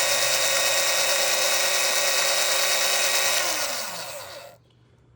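Breville 450XL coffee grinder motor running steadily with a whine, switched off about three and a half seconds in and spinning down with falling pitch until it stops. It runs on the new relay and power-converter circuit that replaced the dead timer board, proof that the repair works.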